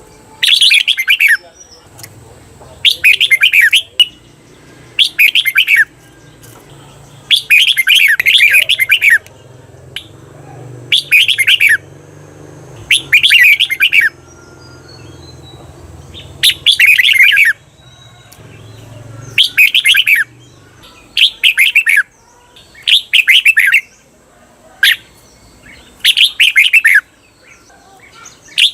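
Red-whiskered bulbul singing loud, quick warbled song phrases about a dozen times, each about a second long with short gaps between, some phrases running on longer: the doubled 'bernle' song used to train caged bulbuls.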